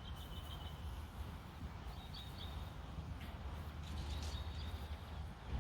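Birds chirping in short high bursts, three times, over a steady low outdoor rumble.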